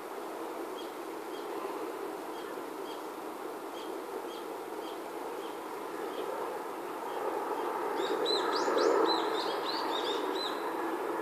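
A bird repeating a short high chirp about twice a second, then breaking into a quick run of rapid high chirps and trills about eight seconds in, over steady outdoor background noise.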